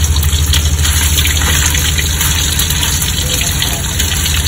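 Slices of luncheon meat frying in hot oil in a wok, a steady sizzle, over a constant low hum.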